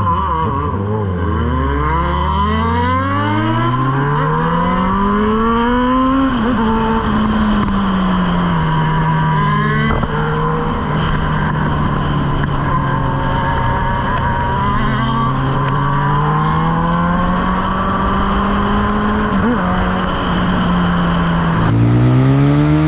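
Suzuki GSX-S1000's inline-four motorcycle engine under way. The revs climb steeply over the first several seconds, then ease back and hold fairly steady at cruise. Near the end the revs climb again.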